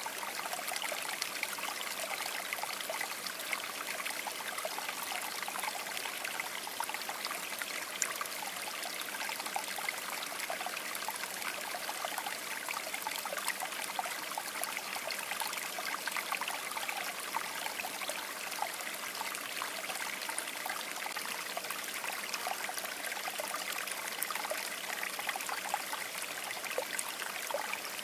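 River water babbling and gurgling over rocks in a steady flow.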